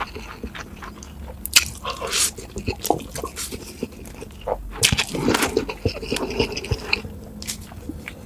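Close-miked eating sounds: chewing and biting of food, heard as a run of irregular clicks and smacks.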